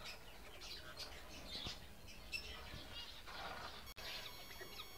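Faint, scattered short chirps of caged birds in an aviary.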